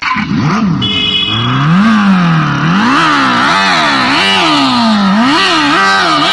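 Simulated motorcycle engine sound played through a 12 V exhaust-pipe speaker, revving up and down repeatedly, slowly at first and then in quicker blips about twice a second.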